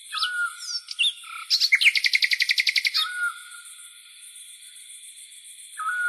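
Birdsong: short whistled calls and pitch glides, then, about a second and a half in, a fast trill of about a dozen notes a second lasting about a second and a half, all over a steady high hiss.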